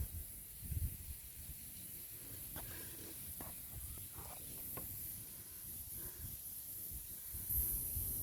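Faint ambient noise: a steady high hiss over a low, uneven rumble, with a few faint ticks in the middle.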